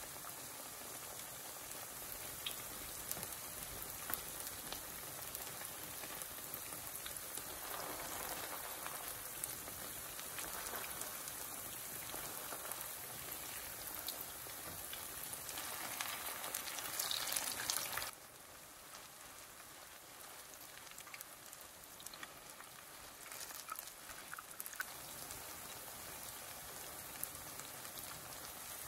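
Potato pancakes sizzling in shallow oil in a pan, a steady crackling hiss. Partway through, a wooden spatula scrapes and turns them, and the sizzle is loudest; about two-thirds of the way through it drops suddenly to a quieter, even hiss.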